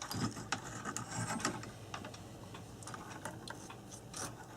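Scattered light clicks and taps of small parts being handled while old wiring and fittings are taken out of an electric clock's case.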